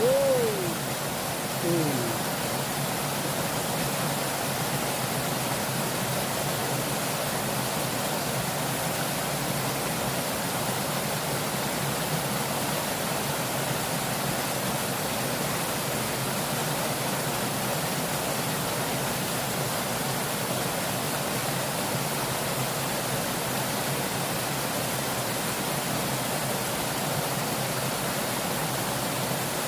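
Fast-flowing river water rushing steadily, a constant even hiss.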